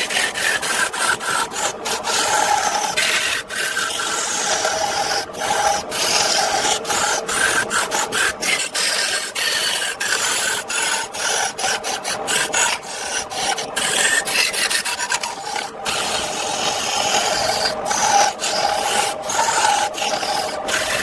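A hand tool scraping and rasping across wood in quick repeated strokes, with brief breaks between strokes.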